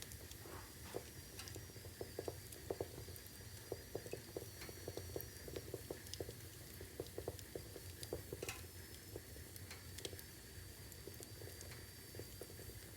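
Wood fire crackling in a fireplace: irregular small pops and snaps from the burning logs over a low steady rumble, with a faint thin high whistle running through.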